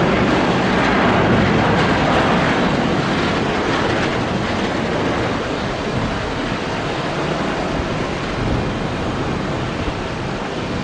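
Engines of an Airbus A330-300 jet airliner: a loud, steady rush of jet noise that slowly fades.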